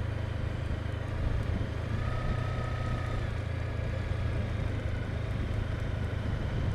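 Motorcycle under way: a steady low drone of engine and wind, heard from the rider's position, with a faint thin tone for about a second between two and three seconds in.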